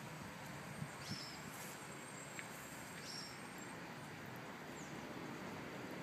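A bird giving short, high chirps about every two seconds, over a steady outdoor hiss.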